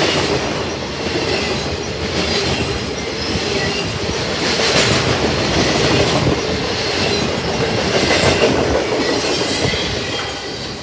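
Cars of a Norfolk Southern welded rail train rolling past at close range, the wheels running over the rail in a steady loud clatter with faint high squeals that come and go, easing slightly near the end.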